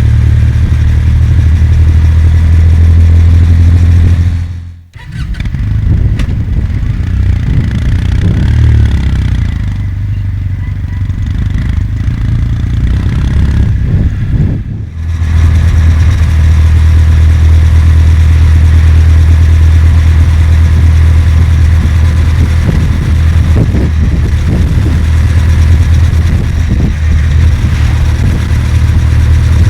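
Kawasaki W800's air-cooled parallel-twin engine running under way, with wind noise over it. The sound drops out sharply about five seconds in and again around the middle, with a quieter stretch between as the throttle eases off, then the engine pulls strongly again.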